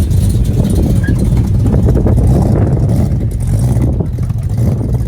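Car engine running with a deep, loud rumble.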